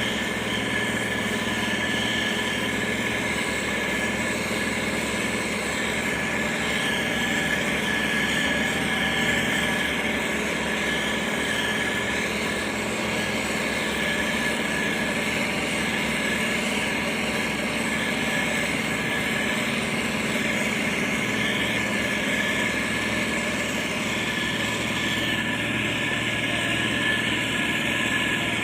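Motor grader's diesel engine running steadily, with a constant high whine over the engine note.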